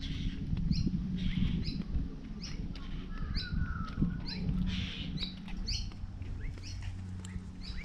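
A bird repeating a short, high chirp roughly once a second, over a steady low hum.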